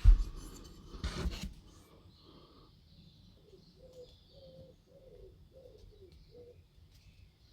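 A few sharp knocks and clatter of handling near the start, then a pigeon cooing softly in the background: a run of about seven short, low, slightly falling notes.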